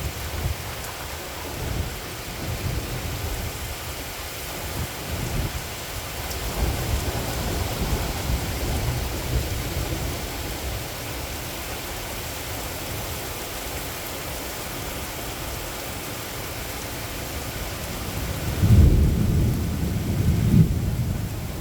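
Steady rain with thunder rumbling low over it; the rumbles swell and fade, and the loudest roll comes near the end.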